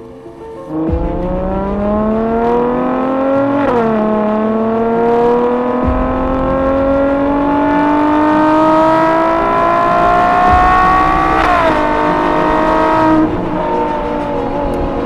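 Ferrari 812 GTS's naturally aspirated 6.5-litre V12 accelerating, its pitch climbing steadily with two upshifts, a sudden drop in pitch a few seconds in and again about two-thirds through, then easing off to a lower, steadier note near the end.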